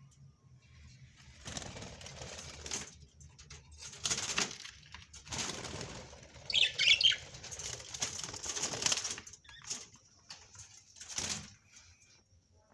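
A small parrot flapping and fluttering its wings in several spells, with a short burst of high chirping about halfway through.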